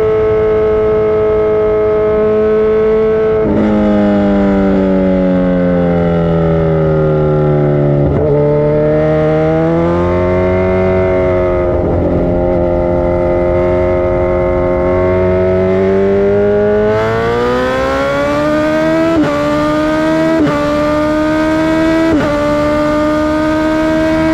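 Motorcycle engine under throttle, its pitch sliding down and back up as the revs change. In the last few seconds it accelerates through the gears: the pitch climbs, then drops suddenly at each of three upshifts.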